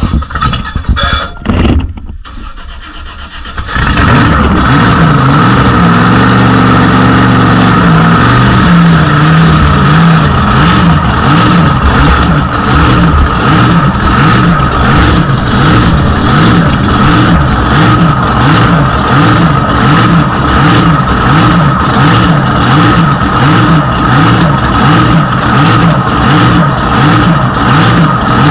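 A supercharged big-block V8 drag boat engine catches about four seconds in and then runs on at idle with a regular wavering, so loud it overloads the microphone, with a steady high-pitched whine over it.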